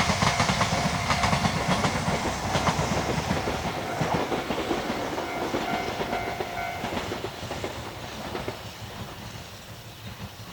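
A train running over the rails with rapid wheel clatter over the rail joints and a low rumble, growing steadily fainter as it moves away. A thin high ringing tone comes and goes over the clatter.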